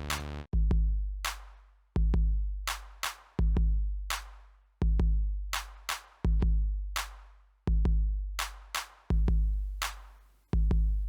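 Instrumental hip-hop beat from a drum machine with no vocals: deep, booming bass-drum hits about every one and a half seconds, each fading out slowly, with short sharp snare or clap hits between them.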